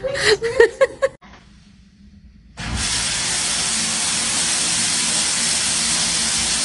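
A steady, loud hissing noise that starts suddenly about two and a half seconds in, after a moment of voice.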